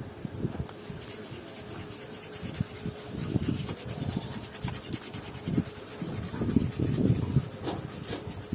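Irregular scrubbing and rubbing strokes on a monitor's circuit board as it is washed clean with thinner.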